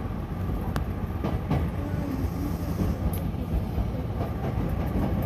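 Hankyu electric commuter train running, a steady low rumble with occasional sharp clicks of the wheels over rail joints.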